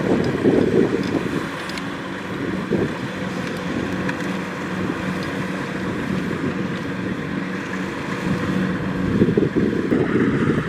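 Kubota DC-70 Plus rice combine harvester running: a steady diesel engine hum with machinery noise, and wind buffeting the microphone, louder at the start and again near the end.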